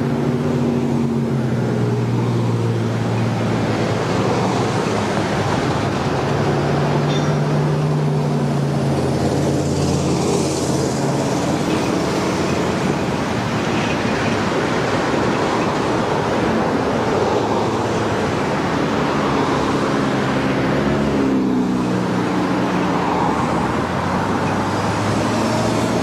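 A vehicle engine running steadily under a continuous rumble, its low engine note shifting slightly in pitch.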